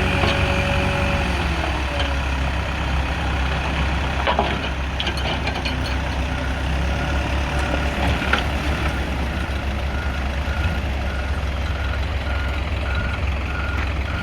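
Heavy diesel road-construction machinery running steadily. From about halfway through, a reversing alarm beeps about twice a second.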